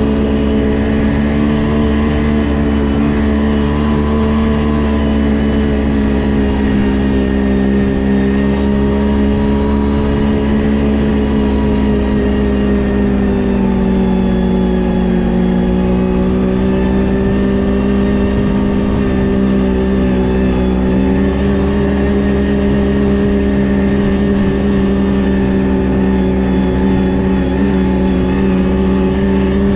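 Ski-Doo GSX 600 HO snowmobile's two-stroke twin engine running under way at a steady cruising pitch. The pitch sags slightly about halfway through, then climbs back up a few seconds later.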